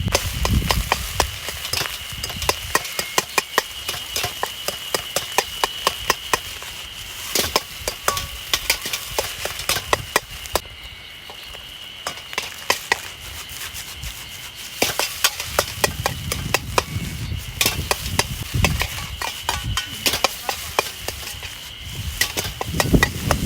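A metal utensil clacking and scraping against a Chinese wok while fried rice is stir-fried over a wood fire. The clacks come quickly and irregularly, thin out around the middle, then pick up again.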